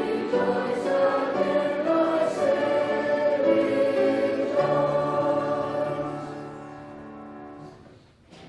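Church choir singing, with held notes changing about once a second; the last chord is held, then fades away from about six seconds in until it is gone near the end.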